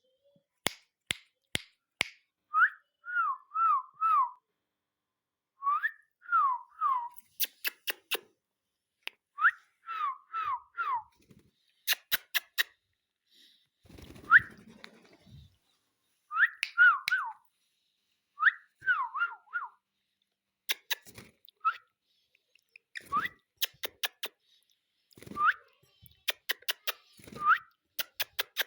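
Indian ringneck parrot whistling short falling notes, mostly in quick groups of three or four, with sharp clicks in between.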